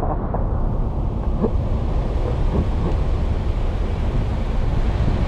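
Steady low engine rumble mixed with wind noise on the microphone.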